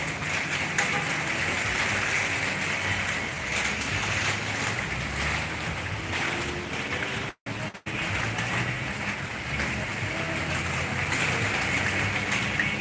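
Heavy rain with strong wind buffeting the microphone, a steady dense rush with low rumbling gusts. Broken twice by brief dropouts just past halfway.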